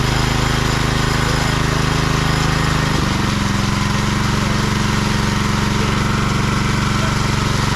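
Small petrol engine of a ride-on or walk-behind power trowel running steadily on a second finishing pass over fresh concrete, its pitch dropping slightly about three seconds in.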